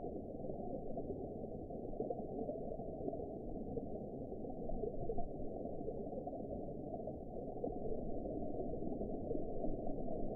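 Steady, muffled underwater ambience: a low, even wash of water noise with no separate clicks, calls or other events in it.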